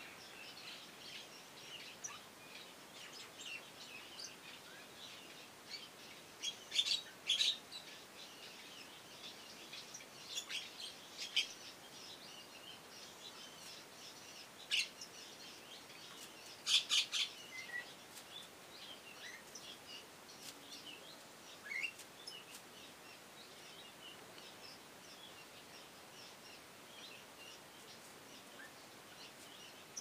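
Birds chirping: scattered short, high calls over a faint outdoor background, with louder clusters of sharp, harsh calls about 7, 11 and 17 seconds in.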